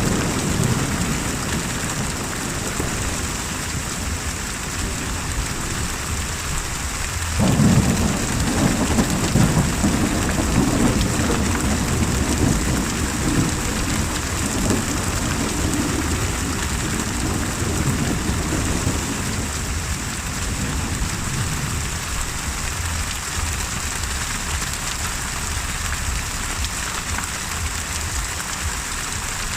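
Steady heavy rain with thunder: a low rumble is fading at the start, then a thunderclap breaks in suddenly about seven seconds in and rolls away slowly over the next dozen seconds.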